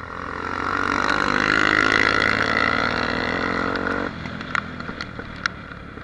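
Honda Tornado XR 250 single-cylinder four-stroke motorcycle engine running, growing louder over the first two seconds and then easing off. The engine sound cuts off sharply about four seconds in, followed by a few scattered clicks.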